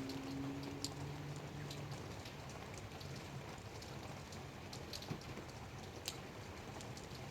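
Light rain falling, a steady soft hiss with scattered individual drops ticking irregularly. A low hum runs underneath at first and fades out about two seconds in.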